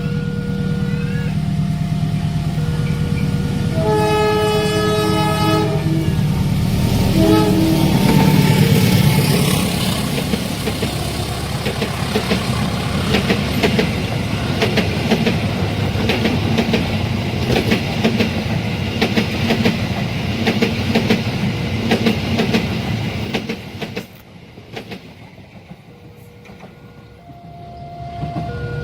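A train approaches a level crossing with a low diesel rumble and sounds its horn about four seconds in, with a second shorter blast soon after. It then passes with a rapid, continuous clatter of wheels over the rails, which drops away suddenly about 24 seconds in. The crossing signal's alternating two-note alarm sounds before the horn and again after the train has gone.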